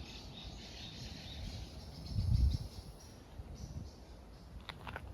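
Small birds chirping in park trees, with short high calls coming thick and fast at first and a few longer high notes after. A low rumble about two seconds in and a quick run of sharp clicks near the end.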